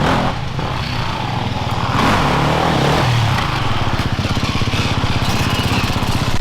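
Off-road enduro motorcycle engine revving, its pitch swinging up and down in the first few seconds, then running on at a steadier pitch with an even beat.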